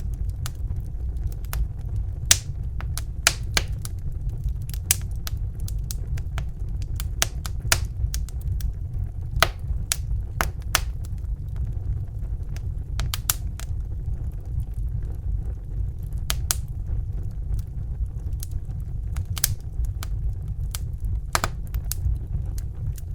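Crackling fire: irregular sharp pops and snaps, a few a second at most, over a steady low rumble.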